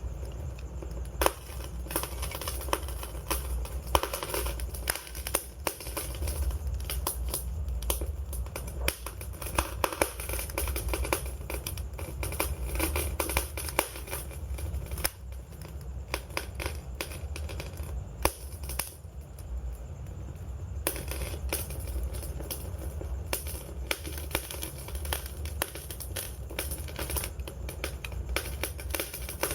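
Wood fire crackling, with dense irregular pops and a few sharper, louder snaps over a steady low rumble.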